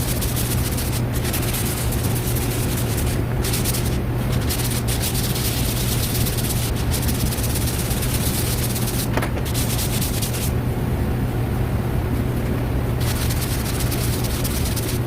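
Cured body filler on a car panel being sanded by hand with a sanding block: a steady abrasive rubbing over a constant low hum.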